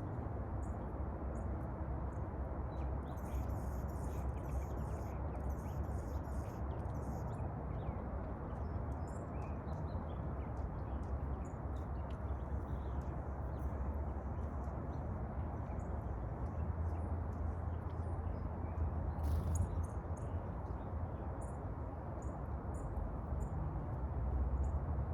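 Small birds calling with short, high chirps, including a run of rapid, repeated high notes a few seconds in, over a steady low background rumble.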